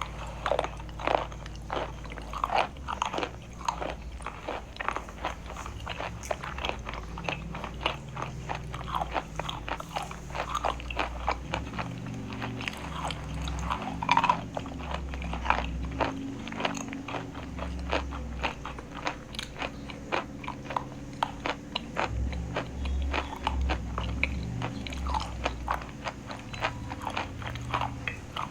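Chalk being bitten and chewed: rapid, irregular crunches throughout, with a louder crunch about halfway through.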